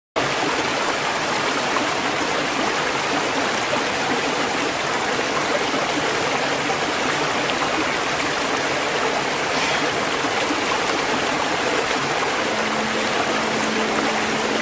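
Steady, unbroken rush of a waterfall's falling water. A low held musical note fades in near the end.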